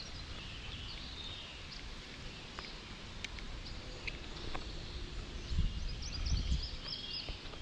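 Outdoor pond ambience: birds chirping over a steady hiss, with a few light clicks and a low rumble on the microphone in the last couple of seconds.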